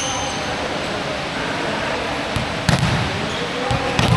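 Basketball bouncing on a court floor in a large room, two heavy bounces coming in the second half over a steady background of room noise. A short high squeak is heard right at the start.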